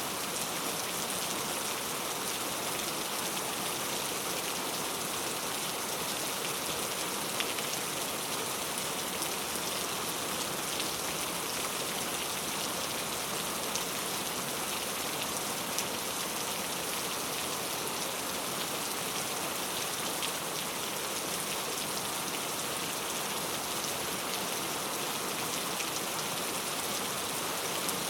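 Steady rainfall: a constant hiss of rain with scattered sharper drop ticks.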